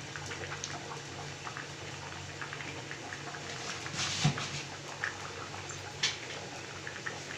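Chicken gravy bubbling in a pan, with small pops scattered throughout and two louder pops or knocks, about four and six seconds in.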